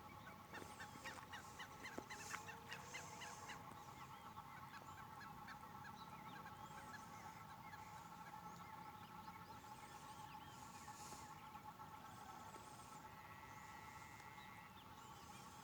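Faint chorus of frogs calling after rain: a steady trilling with many short calls repeated over it.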